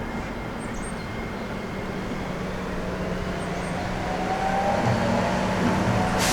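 Seibu 8500 series Leo Liner rubber-tyred train pulling away, its Hitachi IGBT-VVVF inverter and traction motors giving a whine that rises slowly in pitch over a steady low hum as it gains speed, growing louder. Near the end the sound changes abruptly to a brighter hiss.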